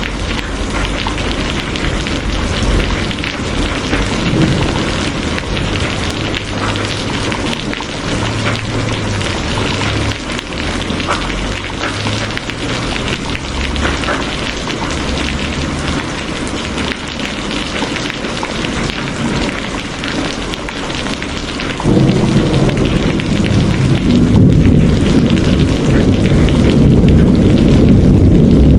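Steady rain, with a deep rumble of thunder that swells suddenly about three-quarters of the way through and keeps rolling.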